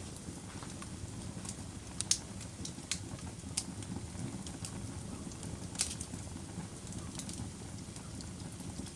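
Wood fire burning in a fireplace: a steady low rumble with irregular crackles and sharp pops, the loudest pops about two and six seconds in.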